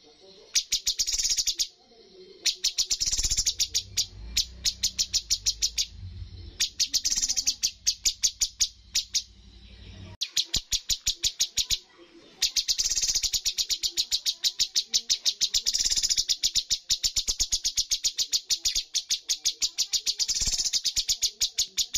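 Cucak cungkok singing in rapid runs of evenly repeated high, sharp notes, several separate bursts and then one long unbroken run through the second half. A low rumble sits under the first half.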